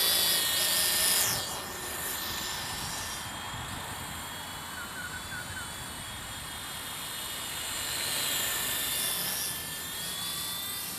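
WLtoys Sky Dancer single-blade RC helicopter in flight, its single electric motor and rotor giving a steady buzz. The buzz gets quieter about a second and a half in and louder again around eight seconds and near the end.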